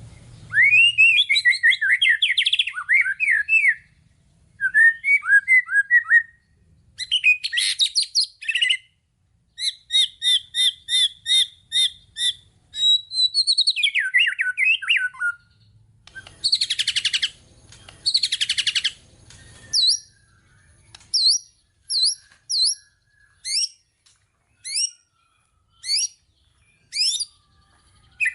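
White-rumped shama singing a varied song full of mimicked phrases: warbled runs, fast series of repeated notes and trills. In the last third the song thins to single short, sharp notes about a second apart.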